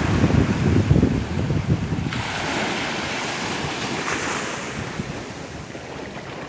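Sea waves breaking and washing, with wind buffeting the microphone. The rumble is heaviest in the first two seconds, then eases to a steadier hiss.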